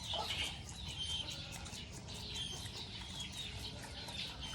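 Birds chirping busily: many short, high chirps and brief whistles, over a low steady rumble.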